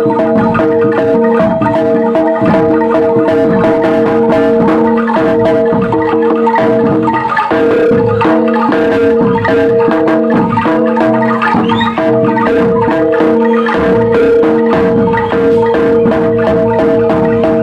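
Loud music on mallet percussion, gamelan-style: held ringing metal tones under a dense, steady run of struck notes and drum strokes.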